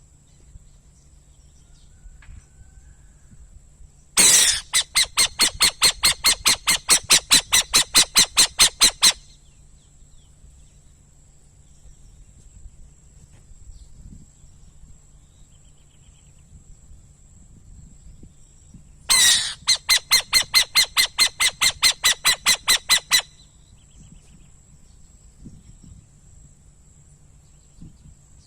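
A bird calling in two long runs of rapid, harsh repeated notes, about five or six a second, each run lasting four to five seconds, the second starting about fifteen seconds after the first. The uploader takes the caller for an owl. A steady high insect drone runs underneath.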